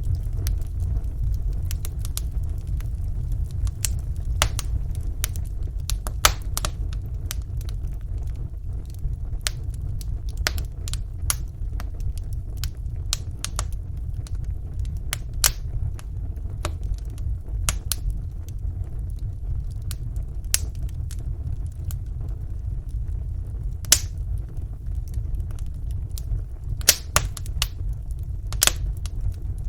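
Wood fire burning in a fireplace: a steady low rumble of the flames with irregular sharp crackles and pops from the burning logs, a few louder snaps among them.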